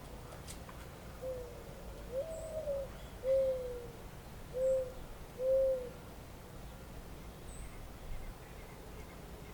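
A bird's low hooting call of five notes, the second longer and a little higher than the rest, the last two short. A few faint, high chirps sound now and then over a steady low background hiss.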